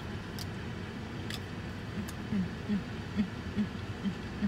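Closed-mouth chewing of food, a short low beat about two to three times a second, starting about two seconds in, over a steady low hum inside a car. A couple of faint clicks come early.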